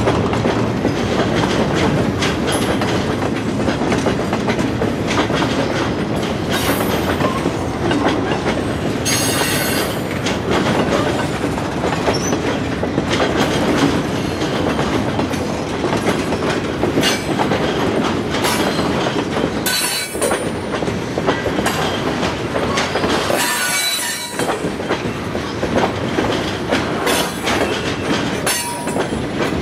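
Freight train cars rolling past, wheels clicking steadily over the rail joints. A few times the wheels give short, high squeals.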